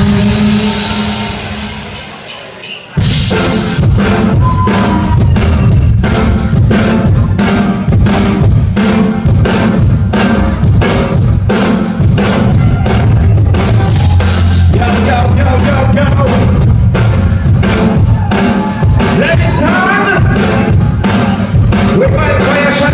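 Live band music: a held chord dies away with a few drum hits, then about three seconds in the full band comes in with a steady, driving drum beat and heavy bass.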